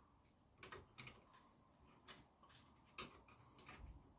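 Quiet, irregular metal clicks and taps, about five in four seconds with the sharpest about three seconds in: spanners being fitted against fork parts to tighten a nut.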